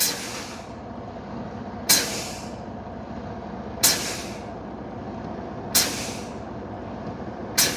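Truck air brakes exhausting as the service brake is pumped: five sharp hisses of air about two seconds apart, each fading quickly, over the steady hum of the idling truck engine. This is air pressure being drained from the tanks to bring on the low air pressure warning.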